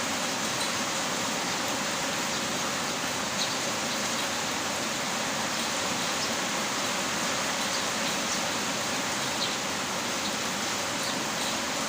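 Heavy rain falling steadily: an even, unbroken hiss with a few faint scattered drop ticks.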